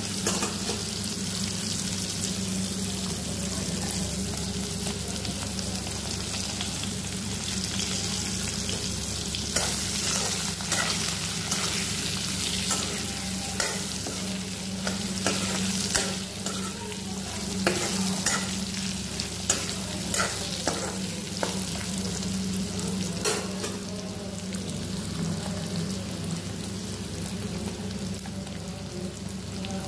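Pork pieces sizzling in hot oil in a metal kadai, with a metal spatula scraping and clicking against the pan as they are stirred. The spatula strokes come more often from about ten seconds in.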